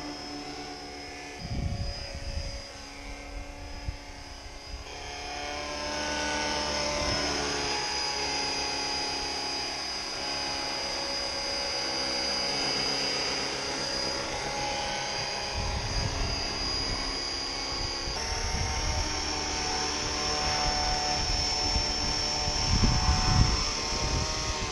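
450-size RC model helicopter in a Bell 206 body, flying with a steady high-pitched electric motor and gear whine over the rotor hum. Wind buffets the microphone at times.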